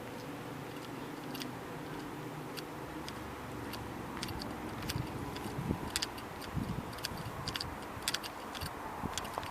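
LM-99AVN tram running along the track over a steady hum, its wheels knocking softly at the rail joints, with sharp clicks growing more frequent from about four seconds in and a couple of heavier thumps midway.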